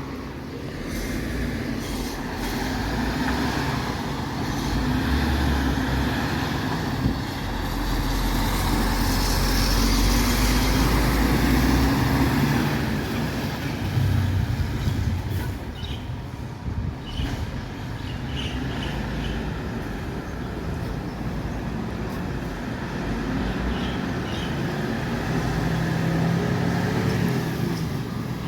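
MAN TGS 26.320 garbage truck's six-cylinder diesel engine running, building up to its loudest about 8 to 13 seconds in and easing off again. A few short knocks come around 16 to 17 seconds in.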